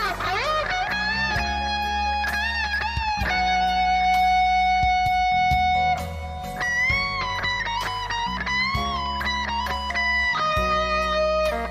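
Electric guitar playing a lead solo over a low accompaniment, with bent notes and vibrato and one long held note in the middle.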